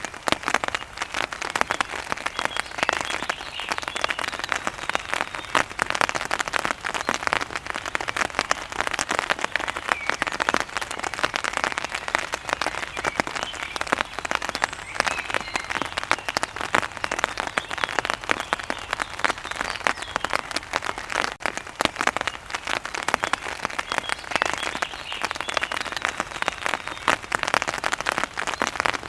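Steady heavy rain falling and pattering densely on a surface, with a few faint bird chirps now and then.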